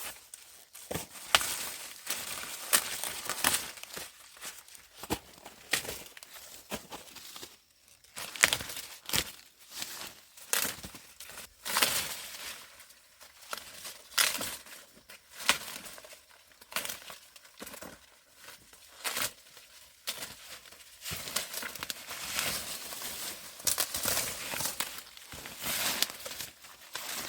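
Dry corn leaves and husks rustling and crackling in irregular bursts, with sharp snaps and tears as ears of corn are broken off the stalks.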